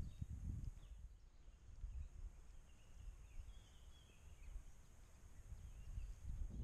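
Faint outdoor ambience: small birds chirping briefly, several short high chirps clustered in the middle, over a low, uneven rumble of wind on the microphone.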